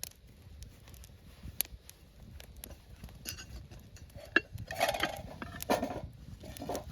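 Light clatter and clinks of camp cookware and utensils, scattered ticks at first and a busier run of clatter about four to six seconds in.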